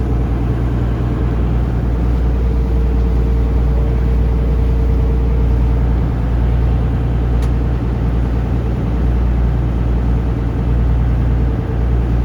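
Taxi boat's engine running steadily under way, a loud, even low drone mixed with the rush of water and wind.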